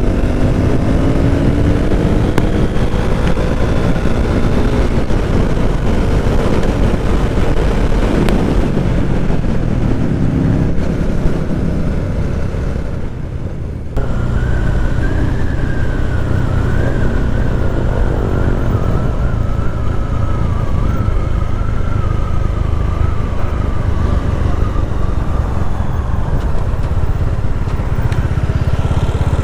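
Motorcycle engine and exhaust under way, revving up and down through the gears; the throttle eases off about twelve seconds in, then it pulls again. A thin, wavering high whine runs through the middle part.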